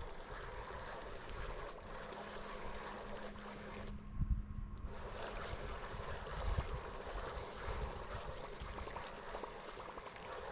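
Water trickling and gurgling steadily, with a brief dip about four seconds in and a few low thumps.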